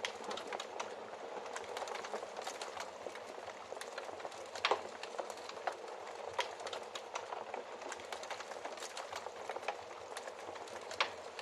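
Wood fire crackling steadily, with many small irregular snaps and a few sharper pops, the loudest a little under five seconds in.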